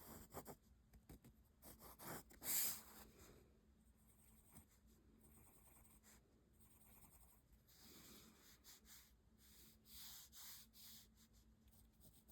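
Faint pencil scratching on paper in short drawing strokes, with a louder stroke about two and a half seconds in.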